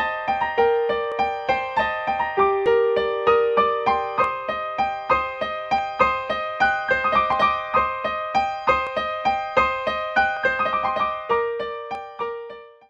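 Soundtrack music: a light, quick melody of struck keyboard notes, piano or electric piano, several notes a second, fading out at the end.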